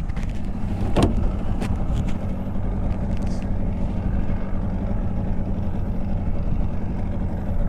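Boat outboard motor idling steadily just after starting, with one short knock about a second in.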